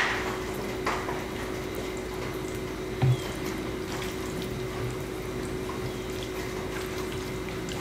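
Steady rain coming in through an open window, an even hiss, with a short low thump about three seconds in.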